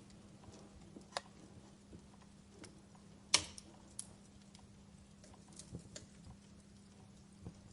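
Wood fire crackling: scattered sharp pops and snaps, the loudest about three seconds in, over a faint steady low hum.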